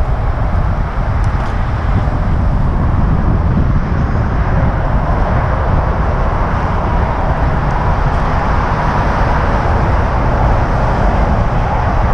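Wind rushing over the microphone of a camera on a moving bicycle: a steady, loud low rumble with a rushing hiss over it.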